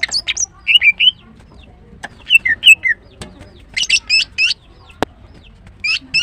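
Female greater green leafbird calling in short bursts of quick, sweeping high chirps, a group roughly every second. A single sharp click about five seconds in.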